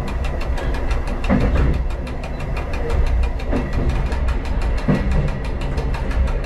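Diesel train running along the line: a steady engine and rolling rumble, with a few knocks from the wheels on the track.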